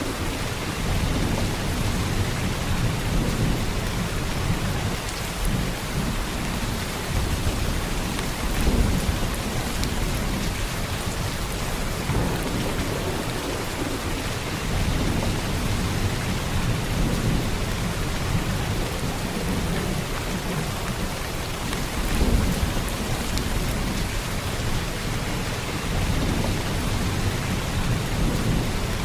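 Heavy rain falling steadily, with a deep low rumble underneath that swells about nine seconds in and again after twenty seconds.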